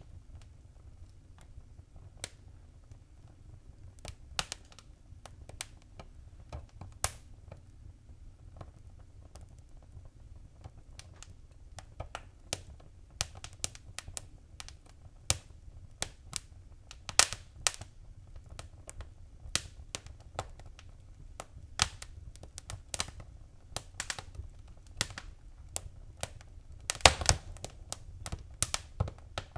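Wood fire crackling in a fireplace: irregular sharp pops and snaps, sparse at first and coming thicker and louder in the second half, over a steady low rumble of the flames.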